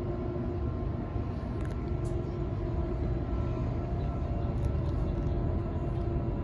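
Waratah A set electric train running between stations, heard from inside the carriage: the IGBT-VVVF inverter and traction motors give a steady whine of several tones over the low rumble of the wheels on the track.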